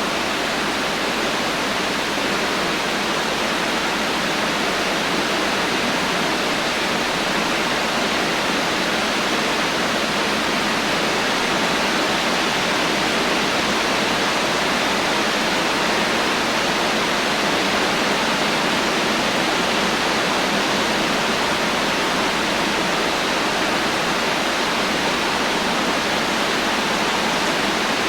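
Heavy rain falling steadily, an even hiss with no thunder and no separate drops standing out.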